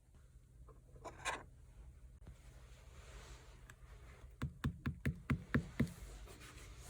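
Mixed slime being played with by hand: a brief squishy rub about a second in, then a quick run of about eight small clicks and pops as the slime is pressed and worked.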